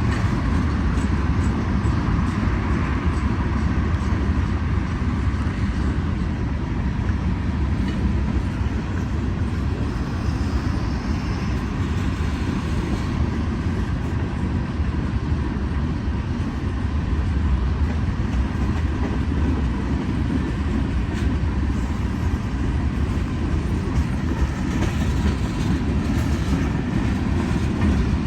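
Freight train cars rolling past on steel rails, a steady loud rumble of wheels and rail without break.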